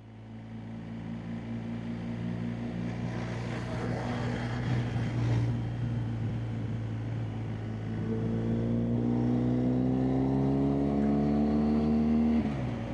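BMW R1250GSA's boxer-twin engine running under way, with wind noise, fading in at the start. From about two-thirds of the way through, its pitch climbs steadily as the bike accelerates, then drops sharply near the end at a gear change.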